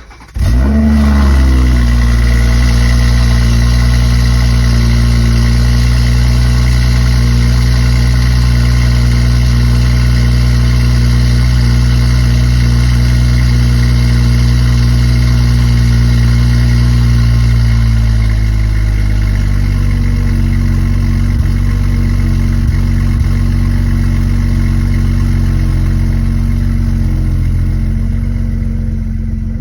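2018 BMW 540i's 3.0-litre turbocharged inline-six cold-starting through an aftermarket valved exhaust with the valve closed. It catches within the first second and flares briefly, then holds a steady high cold idle that drops to a lower idle about 18 seconds in.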